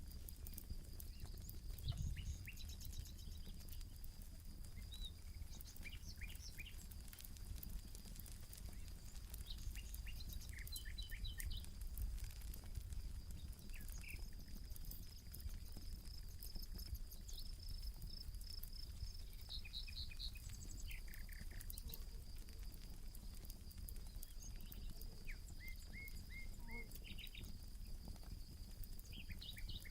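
Campfire crackling softly over a low rumble, with birds chirping now and then and a steady thin high tone in the background.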